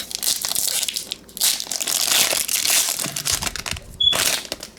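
Trading-card pack wrapper crinkling and being crumpled in the hands, in irregular crackly spells, with a short squeak about four seconds in.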